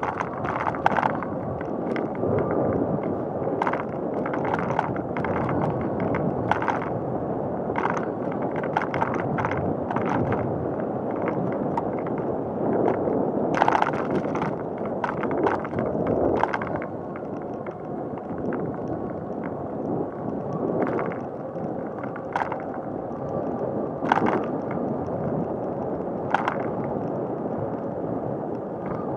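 Bicycle rolling along a paved path: steady tyre and wind noise with frequent light clicks and rattles.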